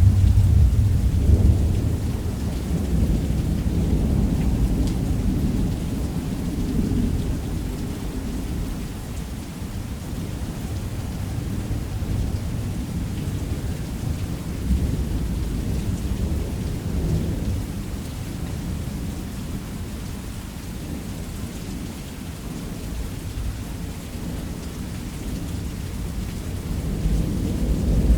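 Thunderstorm with heavy rain. A thunderclap hits at the start and rolls off over several seconds into a steady downpour with low rumbling, and thunder swells again near the end.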